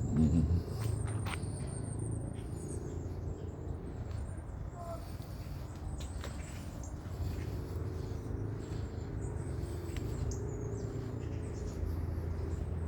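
Outdoor ambience: small birds chirping faintly in high, thin notes over a steady low rumble.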